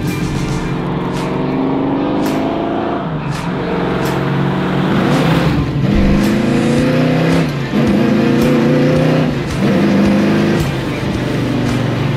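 1968 Ford Mustang Fastback's 428 Cobra Jet big-block V8 accelerating hard, its pitch rising through each gear with short dips at the upshifts.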